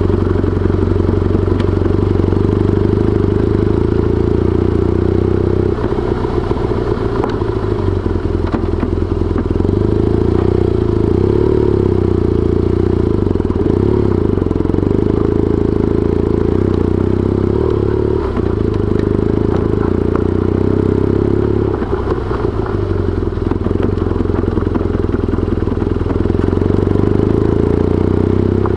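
BMW R1200GS boxer-twin motorcycle engine running steadily while riding, heard from the bike itself.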